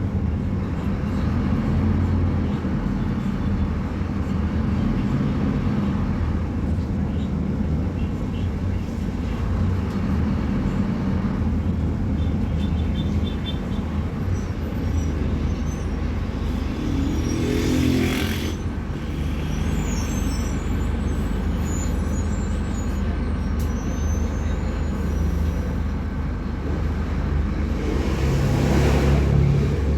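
Scania K250UB bus diesel engine running with a steady low drone. The pitch briefly rises a little past halfway, and two bursts of air hiss come, one then and one near the end.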